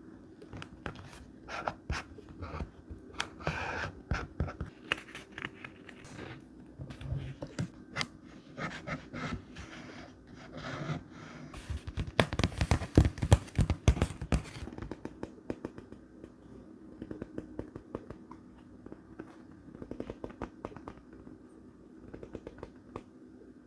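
Thick, textured paper scraps being handled for collage journaling: irregular rustling, crinkling and small taps, busiest and loudest about halfway through.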